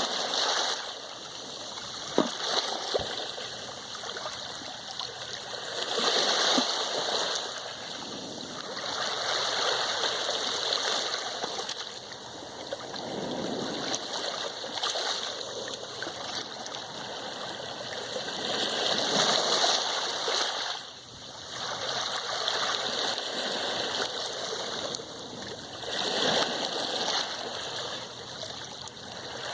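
Sea waves washing in and drawing back, the rush swelling and fading every few seconds. Two short sharp clicks sound about two seconds in.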